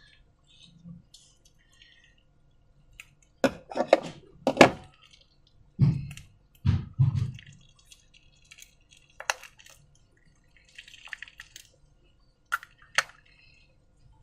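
Wet, sticky handling of slime, with a cluster of sharp clicks and knocks a few seconds in, then a couple of low thuds, and scattered single clicks later.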